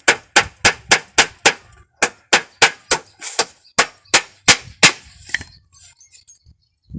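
Hammer driving nails into a car tyre, a steady run of sharp metal strikes about three a second with a brief pause near two seconds, stopping about five seconds in.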